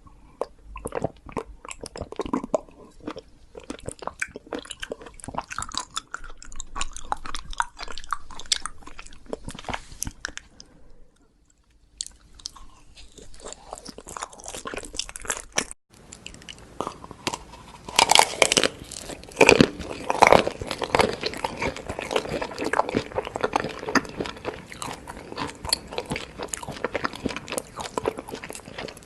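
Close-miked ASMR eating: a person biting, crunching and chewing food in quick crisp clicks. There is a short pause about eleven seconds in and an abrupt break near sixteen seconds, after which the crunching grows louder and denser.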